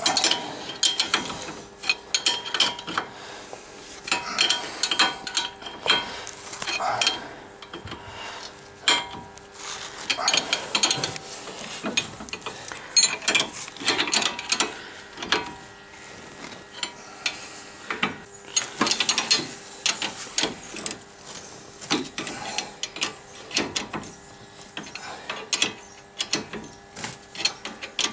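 Hand ratchet wrench clicking in bursts with short pauses, turning the nut on a sway bar link's ball-joint stud while the stud is held still with a second tool.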